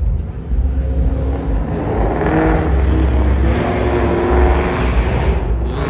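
A car engine running loud, swelling through the middle and dropping away near the end.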